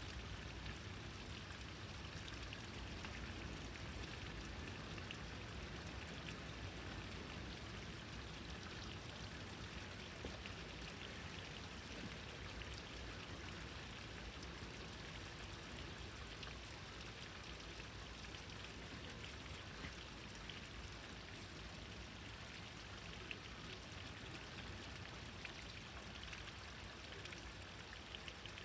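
Steady rain falling, with a constant hiss and many small drop ticks.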